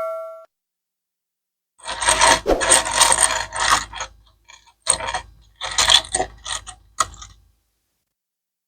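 Rapid mechanical clicking and ratcheting in several bursts, the longest about two seconds, then a few shorter ones.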